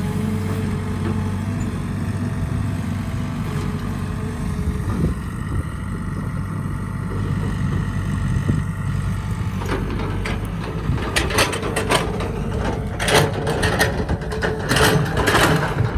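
Heavy machine engine running steadily, joined about ten seconds in by a run of sharp knocks and clatter.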